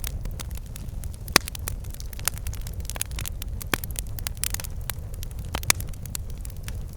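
Wood fire burning in a fireplace: frequent crackles and snaps, with two louder pops about a second and a half in and near the end, over a steady low rumble of the flames.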